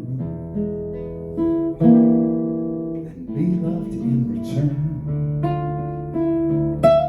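Acoustic guitar playing slow plucked chords and single notes, each left to ring before the next is struck.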